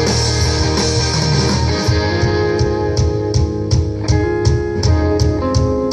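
A rock band playing live between vocal lines: guitars over bass and drums, with sustained chords for the first couple of seconds, then a steady drum beat under held guitar notes.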